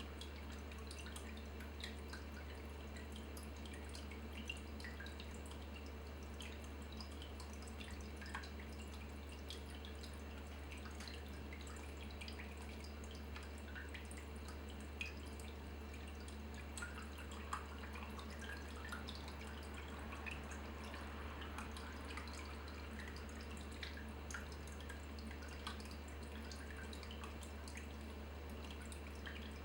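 Water dripping and trickling: a continuous patter of small drops over a steady low hum.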